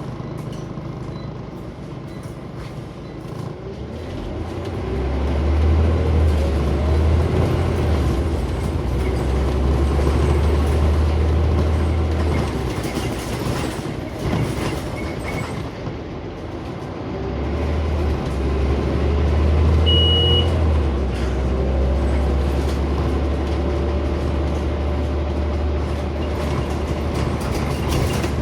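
Scania Omnicity bus engine heard from inside the passenger saloon, pulling hard with a deep drone, easing off for a few seconds around the middle, then pulling again. A short high beep sounds about two-thirds of the way through.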